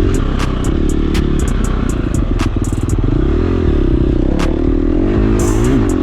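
KTM 350 dirt bike's four-stroke single-cylinder engine running on a trail ride, its revs rising and falling with the throttle, with many sharp clicks and knocks over it.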